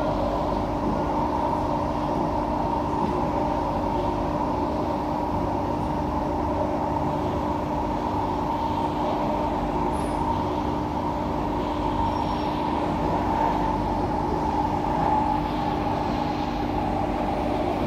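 Singapore MRT train running along an elevated track, heard from inside the carriage: a steady rumble with a constant hum.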